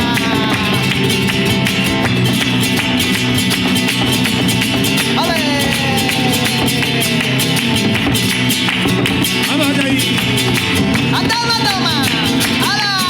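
Live flamenco music: guitar, with fast, dense percussive strikes from clapping or footwork. A singer's voice comes in with falling, gliding lines about five seconds in and again near the end.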